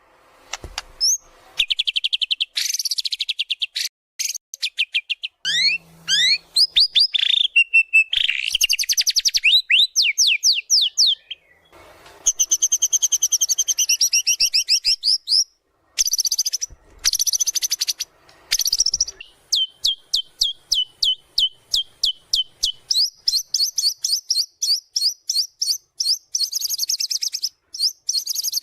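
White-rumped shama (murai batu) in full song: a fast, varied run of whistled phrases and trills with brief pauses between them. Near the end comes a long series of quick, evenly repeated notes.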